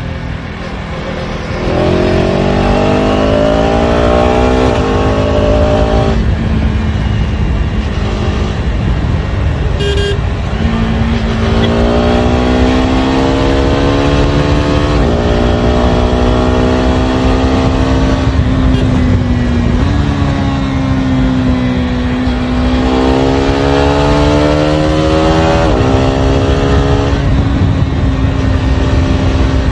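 KTM Duke 250 Gen3's single-cylinder engine through its stock exhaust, accelerating through the gears: three times the pitch climbs, dropping sharply at each upshift, with steadier cruising in between.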